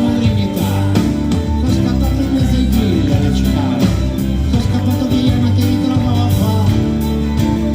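Live band music: an instrumental passage with guitar, bass and drums playing at full volume.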